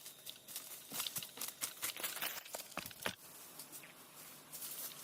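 Irregular rustling and crackling with many sharp clicks, densest for about two seconds in the middle and lighter near the end.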